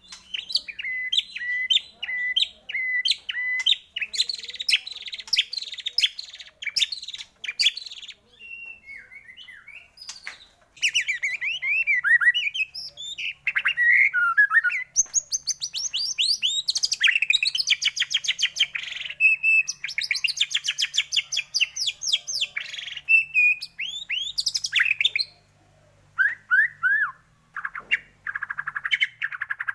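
White-rumped shama singing a long, varied song of fast chattering trills, rattles and whistled glides in quick succession, broken by short pauses. It is used as a lure song to rouse captive shamas into singing.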